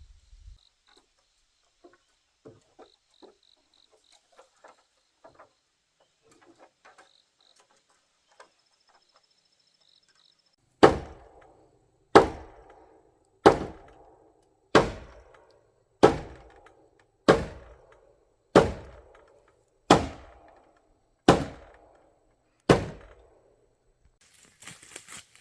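A tool striking wood in ten steady, heavy blows, about one every 1.3 seconds, each ringing briefly, after a stretch of faint tapping.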